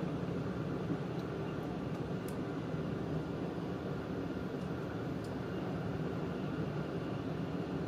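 Steady running noise of an E4 series Max double-decker Shinkansen heard from inside the upper-deck cabin: an even rumble and hiss at cruising speed, with a few faint high ticks.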